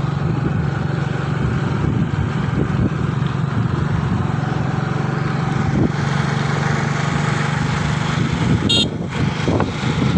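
Motorcycle engine running steadily. A brief high-pitched chirp sounds near the end.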